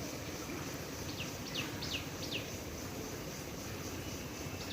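Steady hiss of water spraying from small holes in a plastic pipe along the ridge of a tin-sheet roof. A bird gives a quick run of four short descending chirps a little over a second in.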